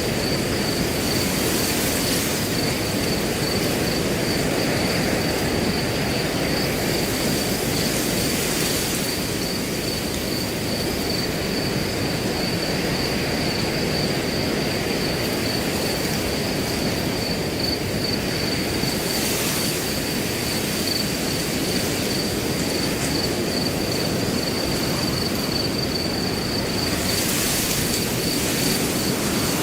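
Wind blowing through grass in a steady rush that swells now and then in gusts, with a cricket chirping in a fast, even, high-pitched pulse over it.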